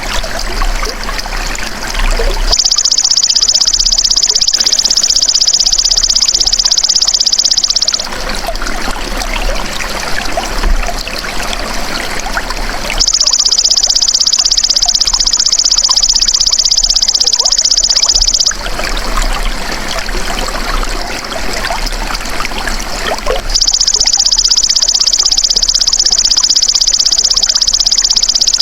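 Belalang emas (golden grasshopper) calling in three high, rapidly pulsed buzzing trills, each about five seconds long and about ten seconds apart, over a steady trickle of flowing water.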